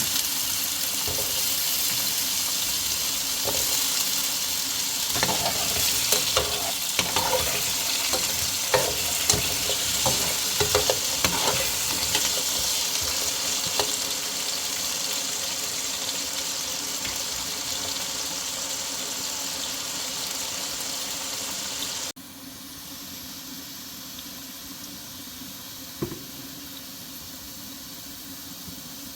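Food sizzling as it fries in a pan, with the clicks and scrapes of a utensil stirring it in the first half. About three-quarters of the way through the sound drops abruptly to a quieter steady hiss.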